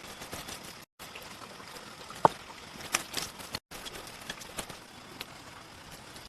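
A steady hiss of water with scattered sharp clicks and knocks, the loudest about two seconds in. The sound cuts out completely for a moment twice.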